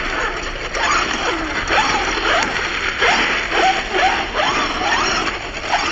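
Radio-controlled truck's electric motor revving in quick repeated bursts, each a short rising whine, over a steady rush of tyre and ground noise.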